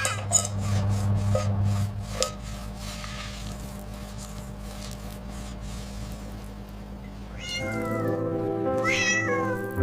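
Kitten meowing twice near the end, each call gliding in pitch, over background music; before that a low steady hum with scattered soft clicks.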